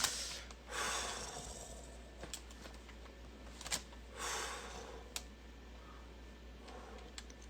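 Quiet room with two soft breaths, about a second in and about four seconds in, and a few small, sharp clicks of handling.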